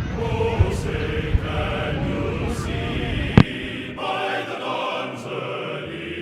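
Choir singing a sustained patriotic piece, with fireworks going off over it: two small thumps early and one loud sharp bang about three and a half seconds in. A low rumble from the fireworks drops away around four seconds in.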